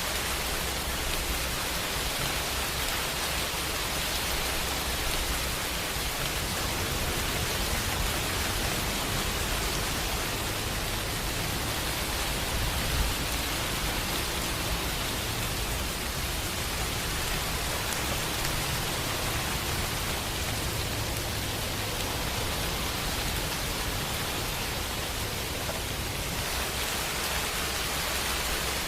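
Steady rain falling, an even hiss with a low rumble underneath that slowly swells and eases.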